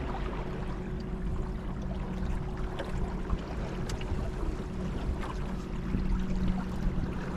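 Boat running on the river: water splashing and trickling along the hull over a steady low motor hum.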